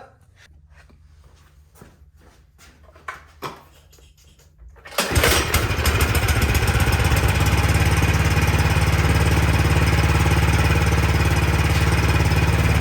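Cub Cadet snow blower's gas engine starting about five seconds in, after a few light clicks and taps, and then running steadily. It starts right up with its dirty carburetor cleaned, the cause of the no-start.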